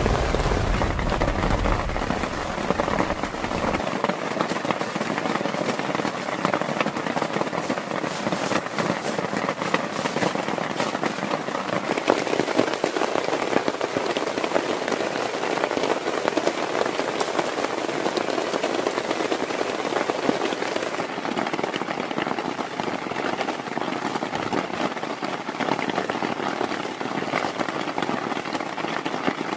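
Heavy rain falling steadily, a dense even patter, with a low rumble that stops about four seconds in.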